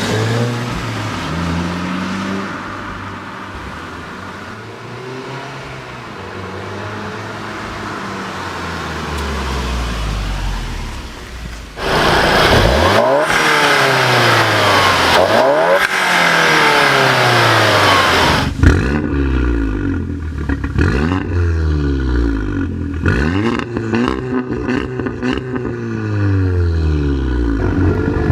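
A four-cylinder car engine accelerating hard through the gears, its pitch climbing and then dropping back at each shift, over several cut-together runs.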